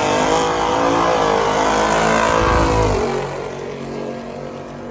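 Drag car engine at full throttle on a pass down the strip, loud for about three seconds, then dropping off and fading as the car goes away.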